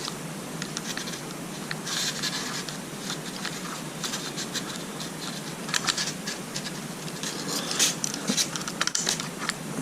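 Hands fitting small parts into an engine distributor: irregular scratching and light clicks of parts being handled and pushed into place, over a faint steady hum.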